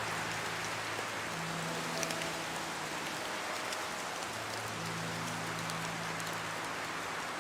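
Steady heavy rain pattering on a surface, with scattered sharper drop ticks. Faint low held tones sound beneath it, changing every few seconds.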